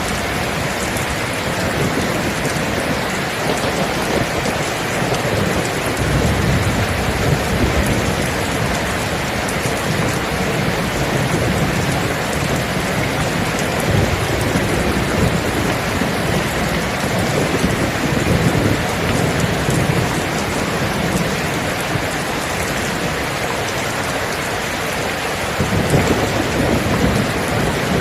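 Steady heavy rain hissing, with low thunder rumbling in and out several times, the strongest swell near the end.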